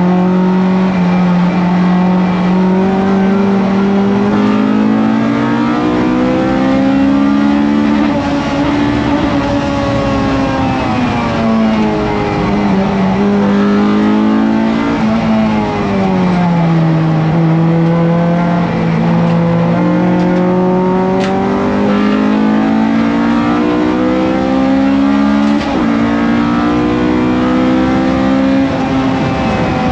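Honda B18C 1.8-litre VTEC four-cylinder engine of a Civic EF race car, heard loud from inside the cabin at racing speed. The revs climb, drop twice around the middle under braking and downshifts, then climb steadily again toward the end.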